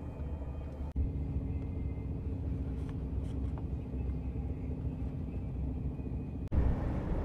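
Steady low rumble of a TGV high-speed train in motion, heard inside the passenger carriage. The sound breaks off abruptly about a second in and again near the end, where it comes back louder and hissier.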